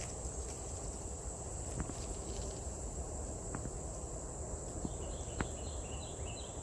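Steady high-pitched insect trill, with a low background rumble and a few faint ticks; a short run of small chirps comes about five seconds in.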